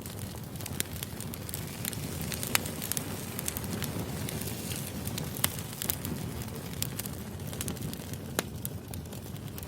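Burning firewood crackling, over a steady low rush of flames, with scattered sharp pops. Three of the pops are louder, about three seconds apart.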